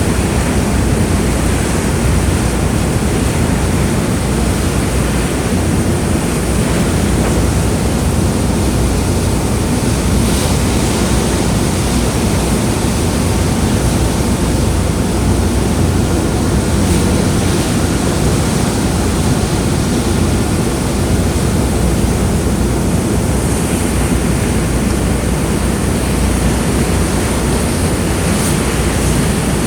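Steady, loud rush of wind on the microphone and water, over a low rumble, as from a ferry underway; a faint high steady whine runs underneath.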